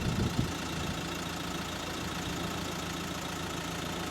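Steady low engine hum with a background hiss, and a brief low rumble about half a second in.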